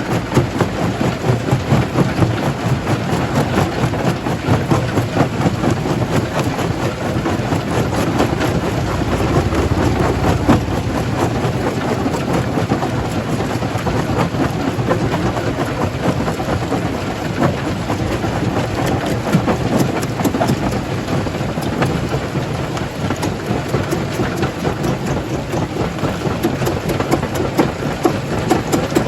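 Jaw crusher crushing rock: a steady heavy rumble thick with the clatter and knocking of stones.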